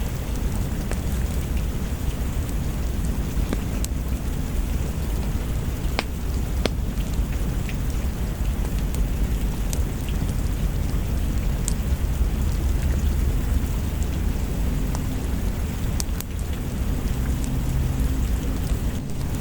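Steady heavy rain with a deep, continuous low rumble of thunder beneath it, and a few scattered sharp ticks.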